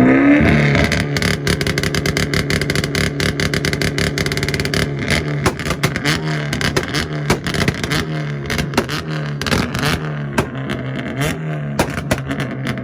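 Mazda MX-5 Miata's four-cylinder engine revved up and held on a two-step rev limiter, with a rapid run of sharp cracks and pops from the exhaust as it bounces off the limiter. It lets off right at the end.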